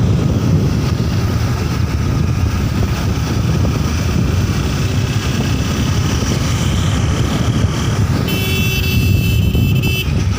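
Motorcycle riding along, with wind buffeting the microphone over the engine and road noise. Near the end a high, steady tone sounds for about two seconds and stops abruptly.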